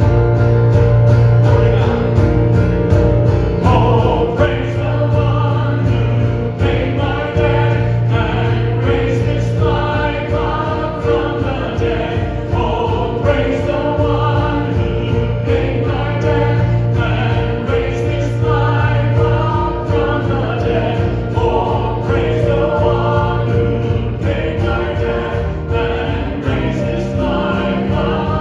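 Choir and congregation singing a hymn with instrumental accompaniment.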